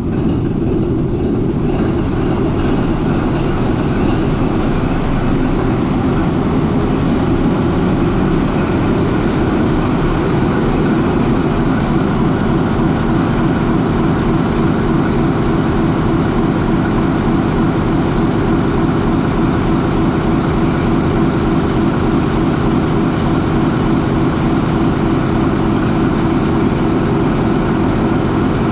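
MAN 20V28/33D STC marine diesel, a 20-cylinder V medium-speed main engine, running steadily at idle, about 400 RPM, just after start-up. A heavy, even drone that holds without change.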